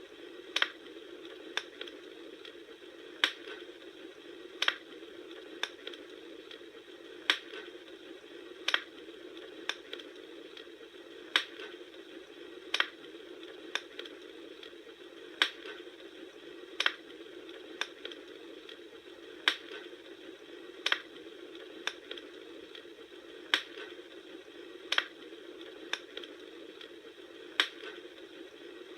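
Wood fire crackling: sharp, irregular pops and snaps about once or twice a second over a steady rushing background.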